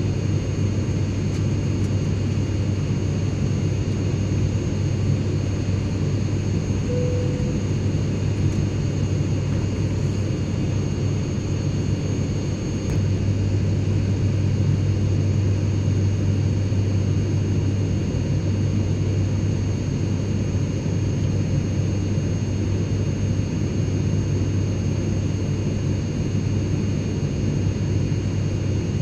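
Airplane cabin interior: a steady low drone of engine and airflow noise, with a few faint steady high whines above it.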